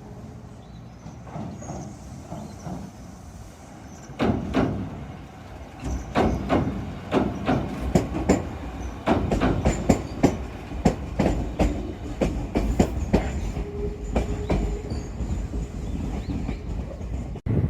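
Shizuoka Railway electric train passing over a bridge, its wheels clacking over the rail joints with a low rumble. It comes in about four seconds in and grows to a quick run of clacks, and the sound cuts off suddenly near the end.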